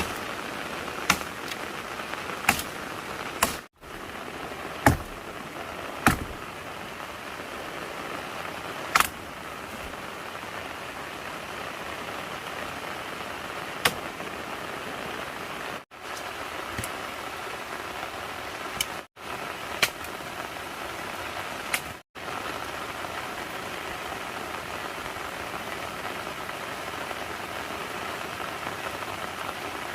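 Steady rain falling, a continuous even hiss. A few sharp clicks and knocks stand out over it, several in the first ten seconds.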